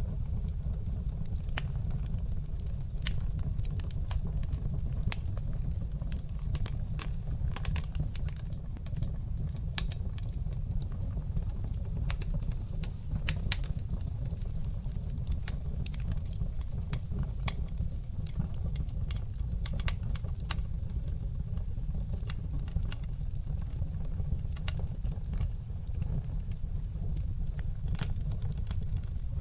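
Fire burning in a fireplace: a steady low rumble of the flames with frequent sharp crackles and pops at irregular intervals.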